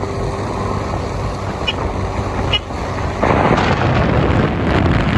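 Motorcycle engine running on the move, with wind rushing over the microphone that gets louder about three seconds in.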